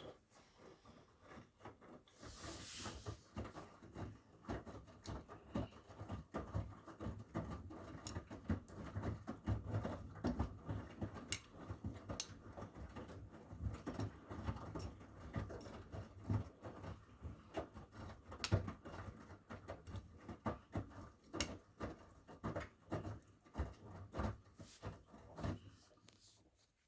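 Miele W1 front-loading washing machine with its drum turning and tumbling wet laundry during the wash, a steady run of irregular soft knocks and patter. It stops just before the end.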